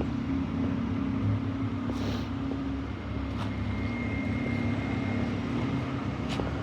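Engine of a nearby road vehicle running steadily, a low hum that holds one pitch, with street noise around it.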